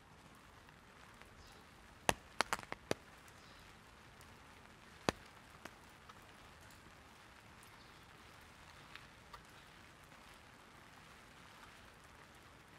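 Light rain falling steadily on an umbrella, with a quick run of five sharp taps on the canopy about two seconds in and a single sharp tap around five seconds in.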